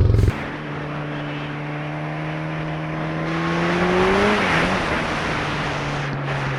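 A motor vehicle engine runs with a steady pitch that climbs slowly for about four seconds, then drops sharply at the same moment as a brief swell of road and wind noise.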